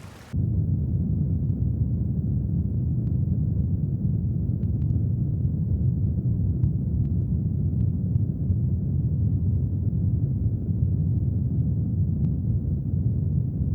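Brown noise: a deep, steady rumbling hiss with no rhythm or pitch, starting suddenly a moment in. A few faint drip-like ticks sound sparsely over it.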